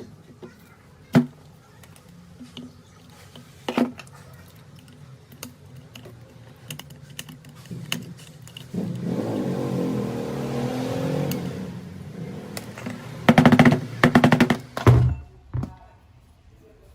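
Workshop handling of rotary hammer parts: sharp clicks and knocks, a few seconds of rushing noise in the middle, and a quick rattle of strokes near the end.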